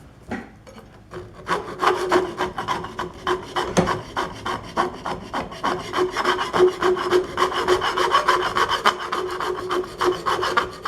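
Hand deburring of a metal part: quick rubbing strokes, several a second, with a faint ring from the metal. The strokes start about a second and a half in and cut off suddenly at the end.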